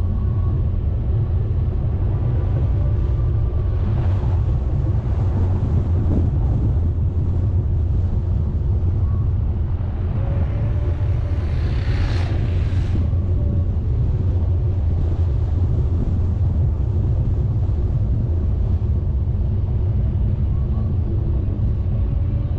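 A vehicle driving on the road: a steady low rumble of engine, tyres and wind, with a brief louder hiss about twelve seconds in.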